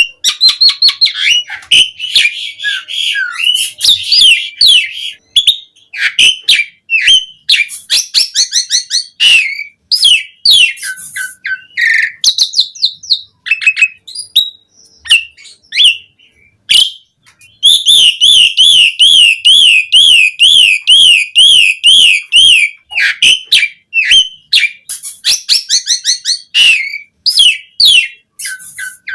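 Asian pied starling (jalak suren) singing a loud, varied song of whistles, chirps and short rattling notes. About halfway through, the song turns to a long rapid warbling trill that rises and falls about four times a second for some five seconds.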